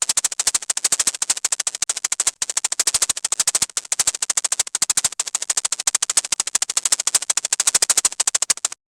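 A rapid, even train of sharp clicks, about nine a second, that cuts off suddenly near the end.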